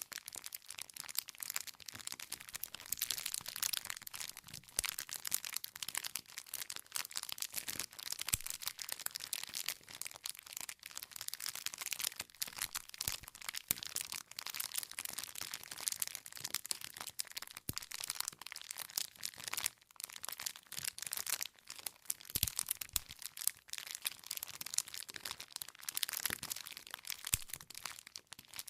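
Wood fire crackling: a dense, irregular stream of small pops and snaps from burning logs.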